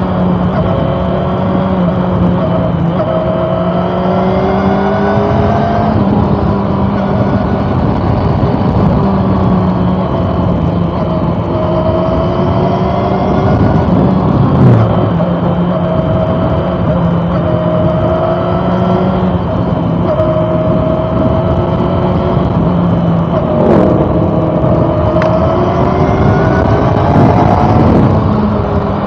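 Honda CB400 Super Four inline-four engine pulling under way. Its pitch climbs under acceleration and drops back at each gear change, several times over, with steady wind and road noise underneath.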